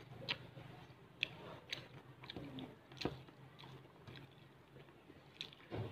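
Close-up chewing and biting of fried fish and rice eaten by hand, with scattered crisp clicks and crunches.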